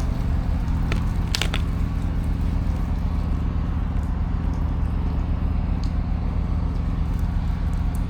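Pressure washer's engine running steadily with the spray off. Two light clicks come about a second and a second and a half in.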